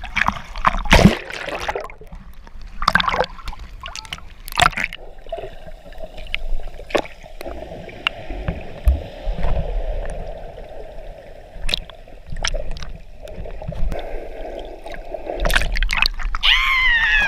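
Sea water splashing and sloshing around people wading in it, with several sharp splashes in the first five seconds and steadier churning water after. A voice calls out near the end.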